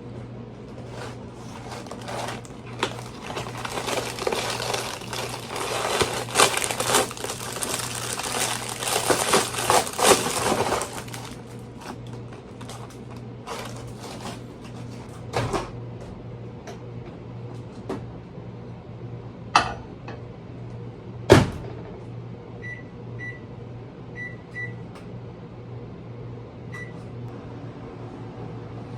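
Objects being handled with rustling and clattering, then a few sharp knocks, then five short high electronic beeps like button presses, over a steady low hum.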